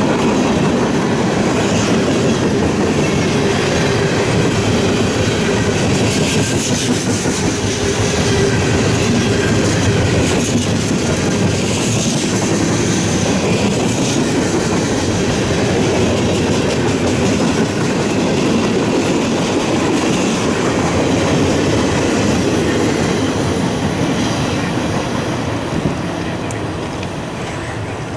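A train passing on the mainline: a steady rumble and clatter of wheels on the rails, fading slowly over the last few seconds.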